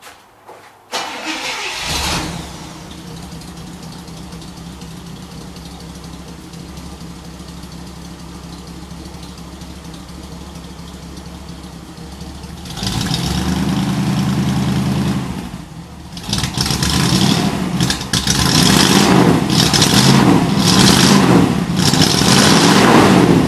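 1962 Chevy Impala's original 283 small-block V8 with a two-barrel carburettor cold-starting after sitting a few months: it catches about a second in with a brief flare, then settles to a steady idle. Just past halfway it is revved for a couple of seconds, and toward the end it is blipped repeatedly.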